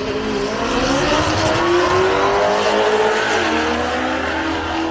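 Drag-racing car's engine running hard on the strip. Its pitch climbs steadily for about three seconds, dips once, then holds steady.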